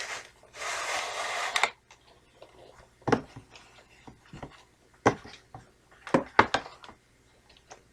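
A VHS cassette being slid out of its cardboard box: a scraping rustle lasting about a second, then a few sharp clicks and knocks as the plastic cassette is handled.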